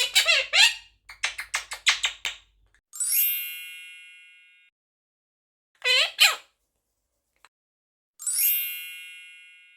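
Quaker parrot chirping in short bursts, with a quick run of clicky chirps, alternating with a bell-like chime that rings out and fades, heard twice (about 3 s and 8 s in). The dead silence between the sounds suggests the chimes are edited-in sound effects.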